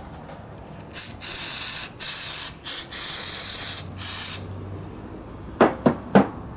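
Pressurised spray hissing in about six short bursts over roughly three seconds, followed by three sharp clicks near the end.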